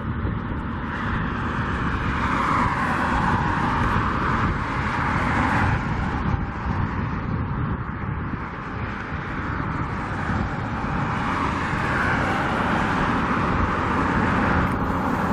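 Strong wind buffeting the microphone: a steady low rumble under a hissing roar that swells and eases with the gusts, in winds of about 40 to 50 mph.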